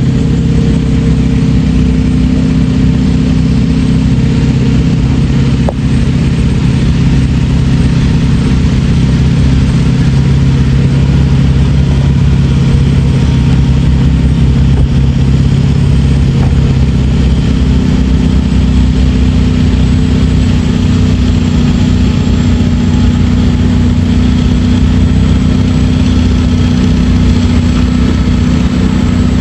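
Heavy diesel engine running steadily at close range, its note dropping lower about seventeen seconds in.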